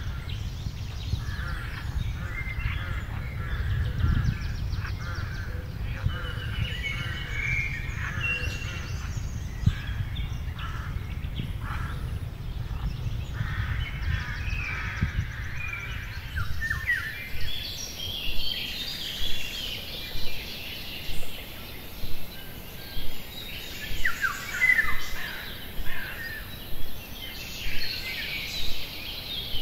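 Small birds chirping and singing, over a low rumble for the first half. From about halfway, a short sound repeats about once a second.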